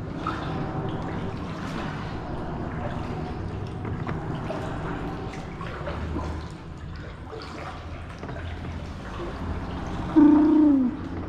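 Water trickling and dripping from a kayak paddle as it strokes through the water. About a second from the end there is one loud, short, honk-like call that falls in pitch.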